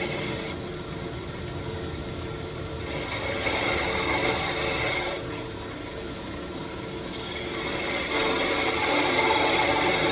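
Wood lathe running with a turning tool cutting a spinning walnut wand blank. The scratchy cutting noise stops twice for about two seconds each, leaving the lathe's steady hum, and comes back louder near the end.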